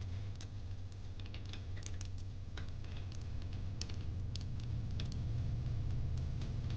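Fire pit crackling: irregular sharp pops and snaps over a low, steady rumble.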